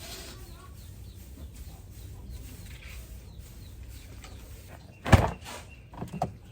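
A single loud knock about five seconds in, followed by two or three lighter knocks, over a low steady rumble with faint chirps.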